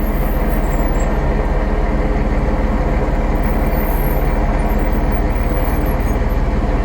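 International 1066 tractor's diesel engine running steadily under load while dragging a heavy log.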